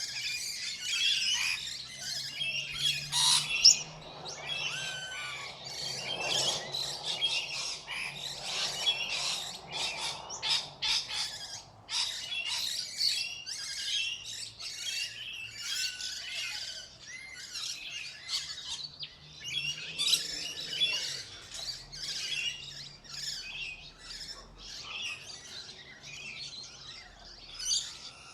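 Birds chirping and squawking continuously, a dense stream of short, high, overlapping chirps, with a faint low hum underneath.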